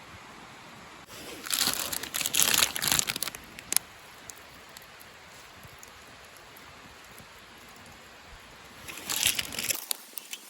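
Two bouts of crunching and crinkling, one about a second in lasting two seconds and a shorter one near the end, over a steady hiss.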